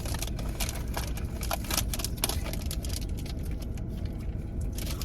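Plastic candy wrapper crinkling and crackling in irregular small clicks as a pack of Warheads sour candy is being opened, over a steady low hum.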